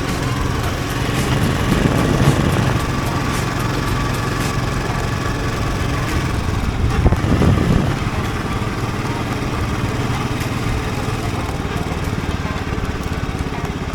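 Royal Enfield Bullet 350's single-cylinder engine running as the motorcycle is ridden, steady and growing louder twice: about two seconds in and again about halfway through.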